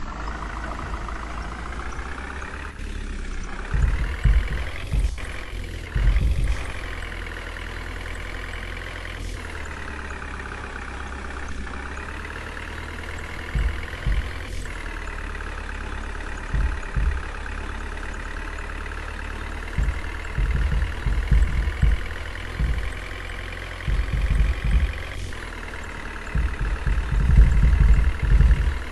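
Heavy diesel engine of a truck or crane running steadily, its pitch rising and falling a little as the revs change. Irregular low rumbles and a few sharp clicks come and go over it.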